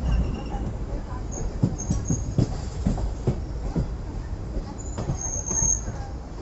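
Passenger train running on the track, heard from aboard: a steady low rumble of the coach with irregular sharp clicks of the wheels over rail joints.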